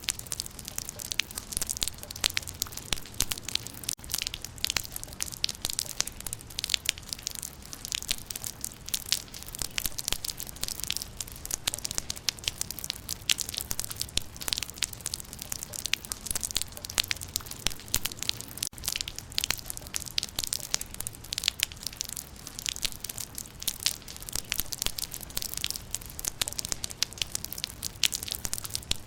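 Rain falling on leaves: a dense, steady patter of many small sharp drop ticks on foliage.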